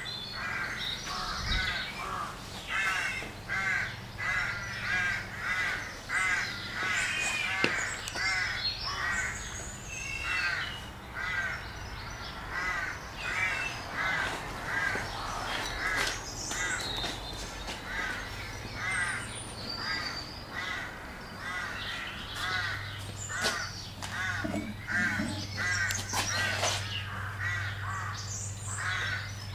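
A bird calling over and over with short, harsh, caw-like calls, about one to two a second, with a low steady hum underneath and a few sharp knocks.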